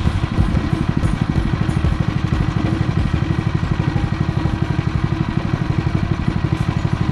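Predator 212cc single-cylinder four-stroke engine running steadily, its exhaust pulsing evenly without much change in speed.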